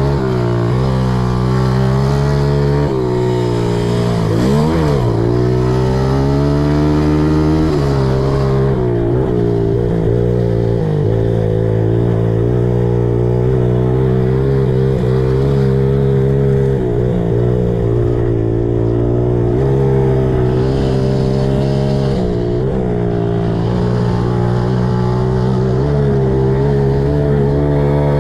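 Small four-stroke pit bike engine running under riding load, its revs rising and falling as the throttle is worked, with a quick drop and climb in revs a few seconds in.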